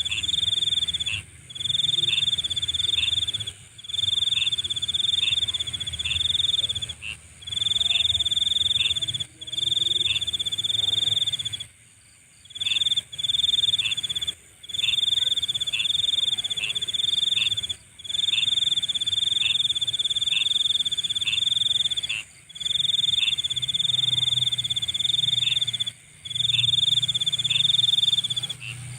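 Night insect chorus: a high trilling song in phrases of one to two seconds with short breaks between them, short chirps a little lower in pitch, and a steady, higher insect drone.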